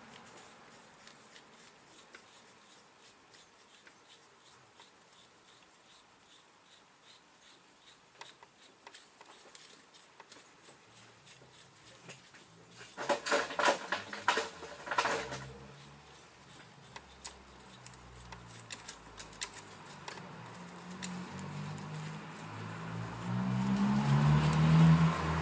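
Hand tools and sockets clinking on metal while the cylinder head nuts are run down: faint scattered ticks, then a short burst of loud rattling clicks about halfway through. A low rumble builds near the end.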